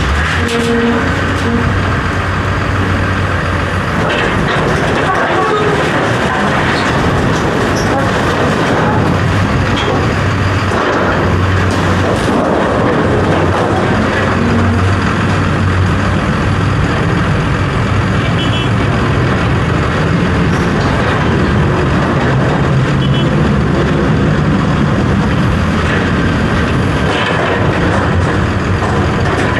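A large engine running steadily, with scattered knocks and clanks.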